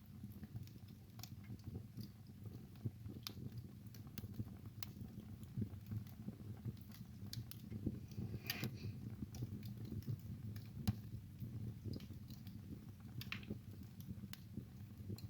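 Wood fire burning in a fireplace: irregular sharp crackles and pops over a low, steady rumble of the flames, with a longer hissing crackle about eight seconds in.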